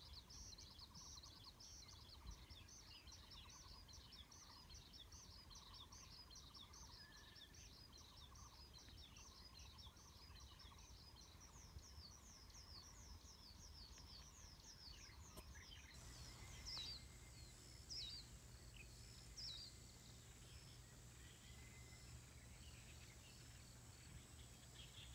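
Faint outdoor ambience with many small birds chirping in rapid short notes. About sixteen seconds in the background changes to a faint steady hum, and a bird gives three louder calls.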